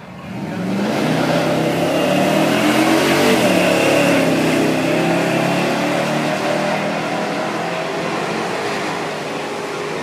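Two vehicles launching together off a drag strip start line and accelerating hard, their engines rising in pitch through each gear, one of them a 2004 Jaguar XKR's supercharged 4.2-litre V8 eased off the line without staged revs. The sound jumps up about half a second in and eases a little as the cars pull away.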